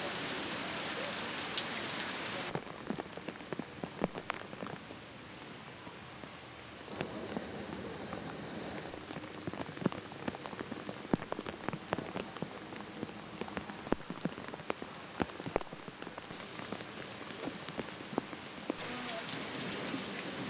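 Rain falling: a steady hiss with many sharp individual drop hits close by, heavier at the start and again near the end.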